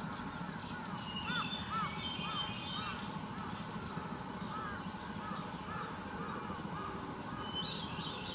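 Several wild birds calling at once: a run of short, repeated arching calls mixed with higher chirps and whistles, over a steady low hum.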